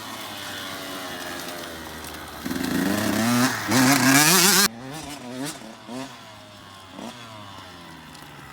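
Dirt bike engine revving hard, its pitch climbing and dropping as the throttle is worked. It is loudest a few seconds in, cuts off suddenly about halfway, then goes on more faintly in short rises and falls.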